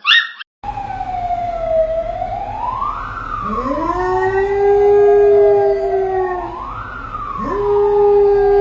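A siren wailing, its pitch gliding slowly up and down, while a husky howls along: two long howls that rise quickly and then hold a steady pitch. A brief sharp sound comes right at the start.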